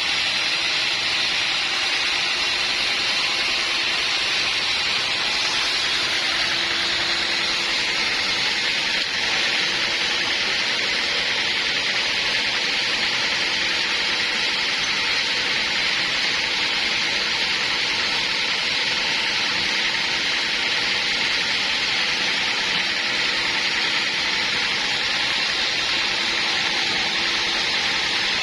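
Sawmill blade cutting through a large acacia log, a steady, even rushing noise that holds the same level throughout.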